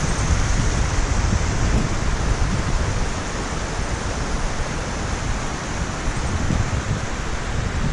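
Steady rushing hiss of falling water from a waterfall, with uneven low rumbling from wind on the microphone.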